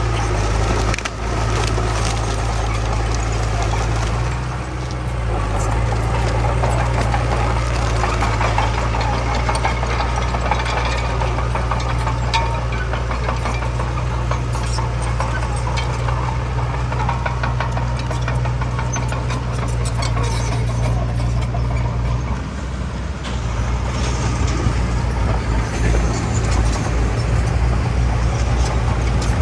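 Heavy diesel bulldozer running hard while pushing soil, a steady low engine drone with continual crackling and rattling over it; the engine note drops briefly about two-thirds of the way through.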